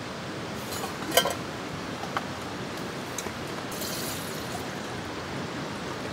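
Heavy rain falling steadily, with a few sharp drip ticks, the loudest about a second in.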